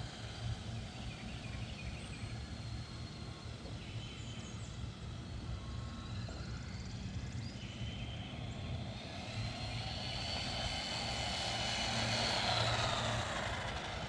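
Redcat Volcano 18 V2 1/18-scale electric RC monster truck driving, its electric motor whining and gliding up and down in pitch with the throttle. The whine rises and grows loudest about twelve seconds in, then falls away.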